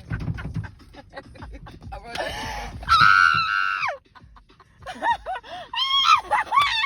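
High-pitched human shrieking: a long held scream about two seconds in, then rapid cackling laughter near the end.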